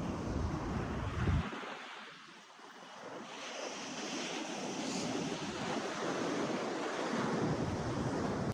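Ocean surf washing in, an even hiss that swells for a few seconds midway as a wave breaks. Wind buffets the microphone with a low rumble until about a second and a half in.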